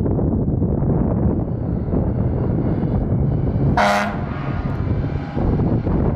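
Fire engine driving by with its engine running in a steady low rumble, and one short blast of its air horn about four seconds in.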